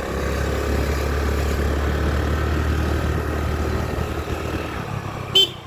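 A vehicle's engine hum and road noise while driving, steady throughout, with a brief sharp pitched sound near the end.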